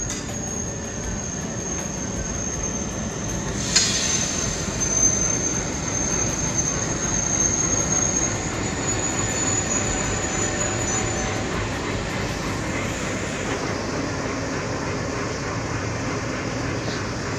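Diesel locomotive and its passenger coaches passing close by at a station, a steady rumble of engine and wheels on rail. A high thin wheel squeal runs through the first ten seconds or so, and a single sharp bang comes about four seconds in.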